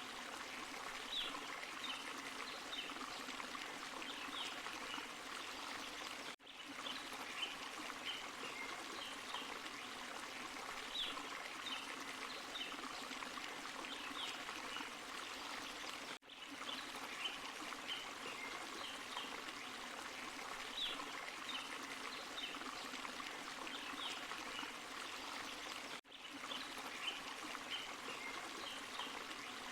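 Small forest waterfall and stream running steadily over rocks, with bright trickling and splashing. The level dips briefly three times, about every ten seconds.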